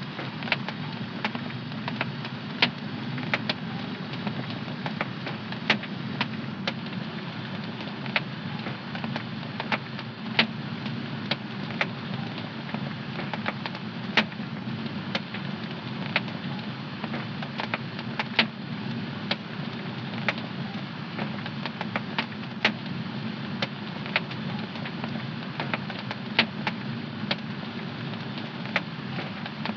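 Wood fire burning in a home fireplace: irregular sharp crackles and pops, a few each second, over a steady low rush of the flames.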